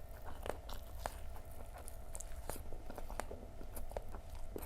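A person chewing and crunching crisp Indonesian fried snacks (gorengan) close to the microphone, with irregular crisp crunches over a low steady hum.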